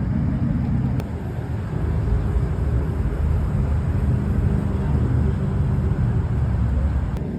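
Car engine running with a steady, deep low rumble.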